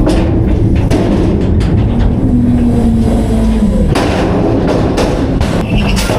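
Autocar front-load garbage truck with a Heil Half/Pack Freedom body at work: the engine running hard under hydraulic load, its pitch rising and falling in the middle, with heavy bangs and clanks of metal and garbage several times.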